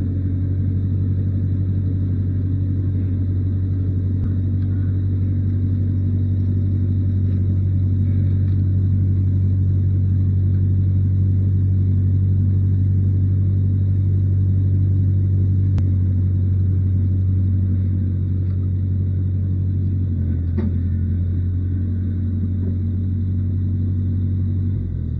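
An engine running steadily at a constant speed, with a low, even hum and a faint high whine; its note shifts slightly about twenty seconds in.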